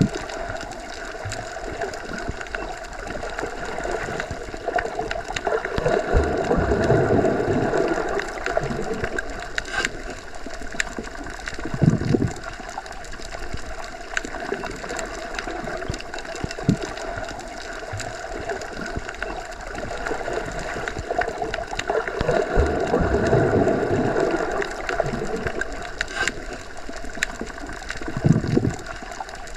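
Underwater ambience: a steady, muffled rush of water that swells twice, with a short low thump after each swell.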